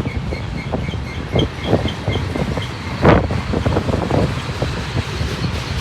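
Freight cars of a long mixed manifest train rolling past: a steady rumble of steel wheels on rail, broken by clanks and clicks, with one louder clank about three seconds in. A faint high squeal pulses a few times a second.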